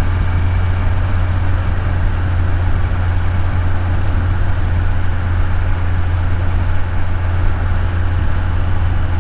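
Kawasaki Z900 inline-four engine running at a steady, even pitch while cruising, under a constant rush of wind and road noise.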